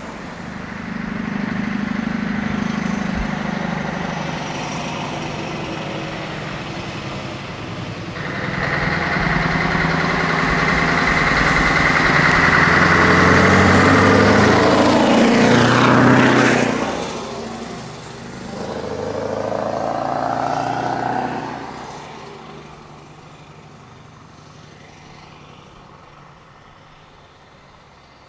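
Scania 164L 480 V8 truck engine pulling away under load: the note builds to a loud peak as it passes, dips briefly, rises again, then fades into the distance.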